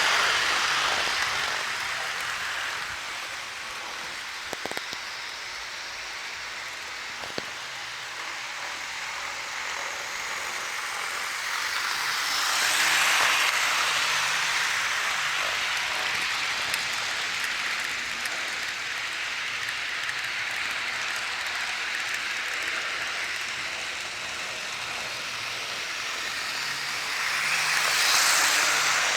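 HO scale model train running around the layout, a steady rolling hiss that swells as the train passes close about every 15 seconds and fades in between, with a few light clicks.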